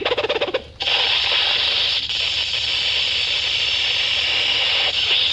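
Electrical short-circuit sound effect from the barker bird spiel: a rapid buzzing crackle lasting under a second, then a steady hiss, signalling that the bird has blown a fuse.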